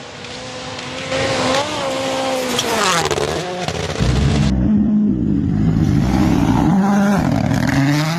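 Rally car engines at full race pace. One car comes closer, its engine note climbing and then falling about three seconds in. Then a second, louder car revs up and down through gear changes.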